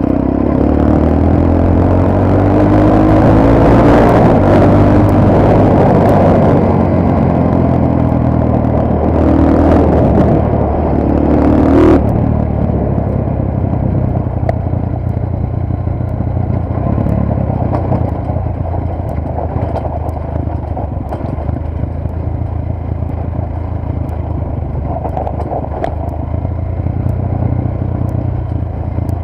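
Motorcycle engine running under way, with rushing noise over the microphone. The engine climbs in pitch through the first twelve seconds or so, drops off sharply at about twelve seconds, then runs steadier and a little quieter.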